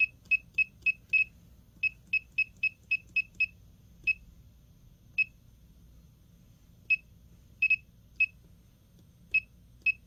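Short, high electronic beeps from the HM-122 micro Vickers hardness tester's touchscreen panel, about twenty of them at irregular spacing: quick runs of several a second during the first three and a half seconds, then single beeps and a quick pair a second or more apart, like key presses on the panel.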